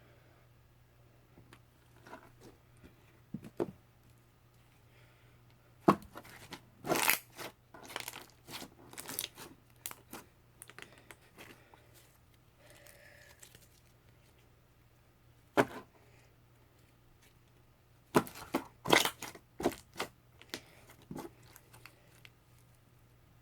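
Slime being squeezed and pressed by hand, giving sharp crackling pops and snaps. They come in two dense bursts, with a few single pops and quiet stretches between.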